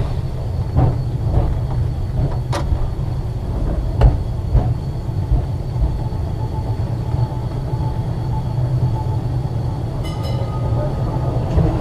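Ex-Liverpool Corporation electric tram 869 running along the track: a steady low rumble from the wheels and running gear, with a few sharp knocks and clicks.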